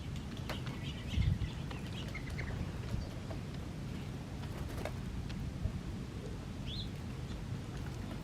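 Small songbirds chirping in short, scattered calls, over a steady low rumble.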